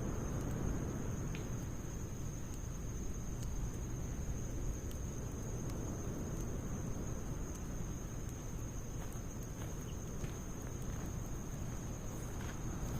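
Wood fire of logs and pine needles burning, with scattered sharp crackles and pops over a low steady rumble. A continuous high-pitched insect trill runs underneath.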